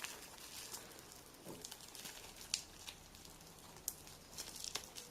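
Plastic bubble wrap crinkling and crackling faintly as it is squeezed by hand, with scattered small clicks, while trying to pop a bubble.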